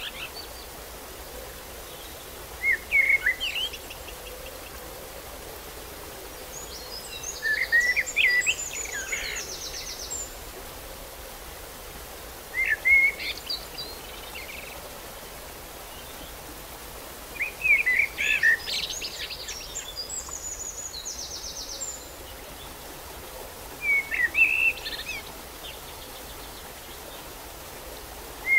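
A songbird repeating a short song about every five seconds: a few quick chirps followed by a higher buzzy trill, over a steady background hiss.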